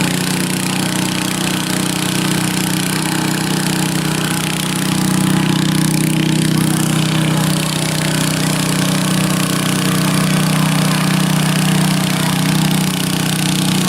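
Tractor engine running hard at steady high revs, pulling the sled in a tractor pull.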